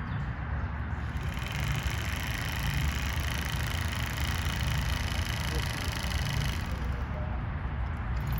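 Steady low rumble of road traffic, with no distinct knocks or tool strikes standing out.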